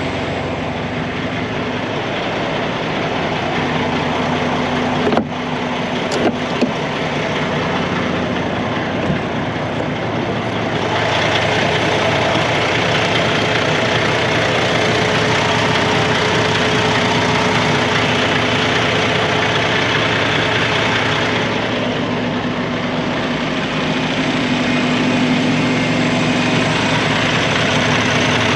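Semi-truck diesel engine idling steadily while it builds air pressure. A few sharp clicks come about five to six seconds in, and the engine sound is louder and brighter through the middle stretch.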